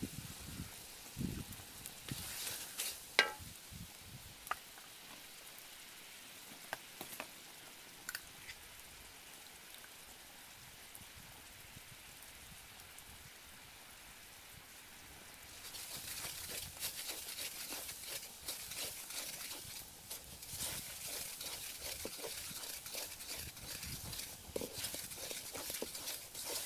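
Coconut paste sizzling in a metal wok over a wood fire, with a few knocks of a wooden spatula early on. A little past halfway it grows louder and crackly as the paste is stirred and scraped around the pan.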